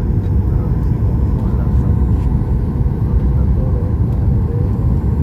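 Steady low rumble of a Boeing 737 MAX 8 heard from inside the passenger cabin: its CFM LEAP-1B engines and the airflow, with a faint steady hum.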